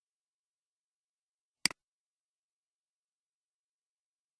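A single computer mouse click about a second and a half in, the button's press and release heard as two quick ticks. The rest is silence.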